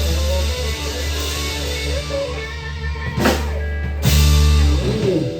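A rock band with electric guitar, bass and drum kit ending a song. Two drum hits about three and four seconds in lead into a loud closing chord, which is held and then cut off near the end.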